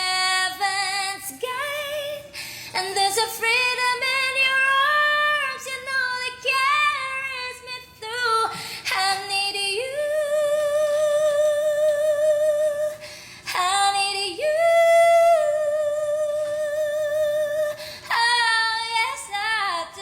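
A woman singing in a powerful, clear voice, phrase after phrase, with long held notes that waver in vibrato about ten seconds in and again a few seconds later.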